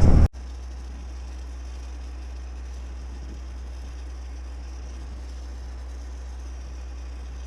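A loud sound cuts off abruptly about a third of a second in, leaving a steady low hum with a faint hiss.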